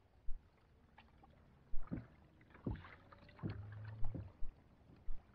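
Scattered knocks and thumps on a kayak's hull as gear and the catch are handled on board, about one every second or so.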